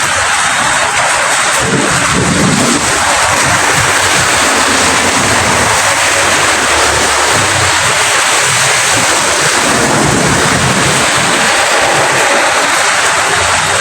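Steady, heavy rainfall as an even hiss of many drops, with a low rumble that swells underneath now and then.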